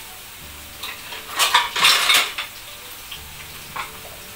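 Breaded chicken breasts sizzling steadily in a pan of frying oil, with a clatter of dishes and utensils about a second and a half in, lasting about a second, and a few lighter clicks either side.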